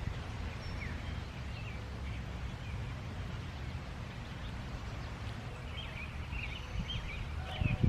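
Outdoor garden ambience: small birds chirping over a steady low rumble, the chirping busier near the end. A couple of soft low thumps come just before the end.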